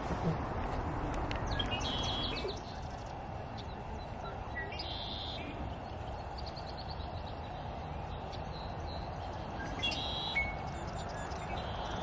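Songbirds calling: short high chirps and a few brief buzzy trills, the loudest at about five and ten seconds in, over a steady background rush.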